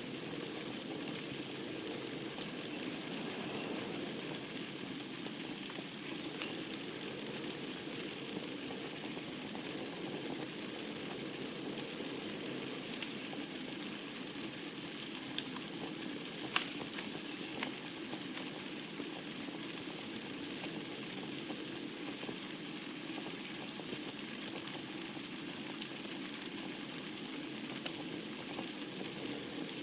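Wood fire burning in a fireplace: a steady low rush and hiss with scattered crackles and a handful of sharper pops from the burning logs, the loudest about halfway through.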